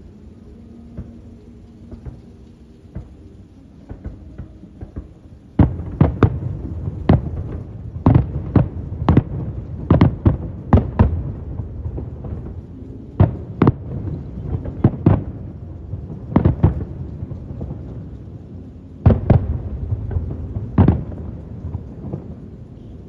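Aerial fireworks shells bursting: a few faint pops at first, then from about five seconds in a rapid volley of loud booming bangs with rumbling echoes, easing off and ending with a last cluster of bangs near the end.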